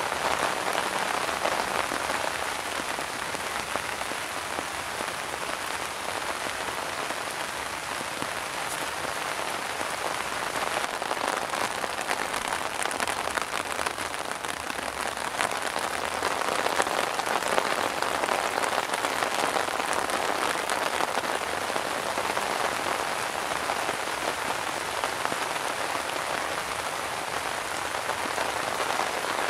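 Steady rain falling on grass and leaves, a dense, even patter that grows a little louder in the second half.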